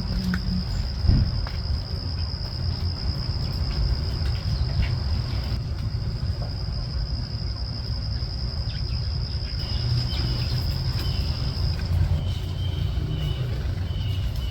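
An insect trilling in one steady, high-pitched, unbroken note that stops near the end, over a constant low rumble. A few faint short chirps come in near the end.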